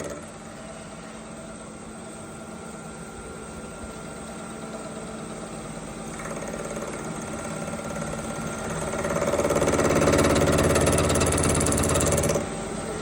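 Machine-shop power tool running while cutting a bearing lock groove into a connecting rod cap. It holds a steady hum that swells to its loudest from about nine seconds in, then drops off sharply just before the end.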